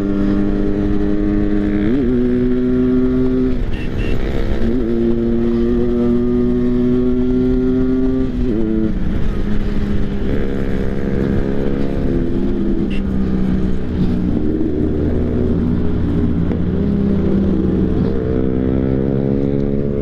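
Motorcycle engine running hard at speed, its pitch held steady for stretches and briefly dipping and picking up again about 2, 4.5 and 8.5 seconds in, under a rush of noise.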